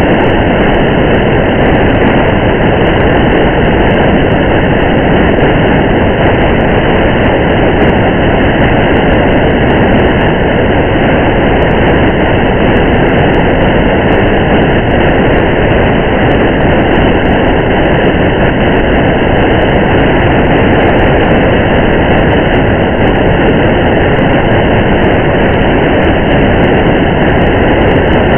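Steady, unchanging noise of a car driving in rain: a dense rumble and hiss of tyres on a wet road and falling rain, with faint scattered ticks throughout.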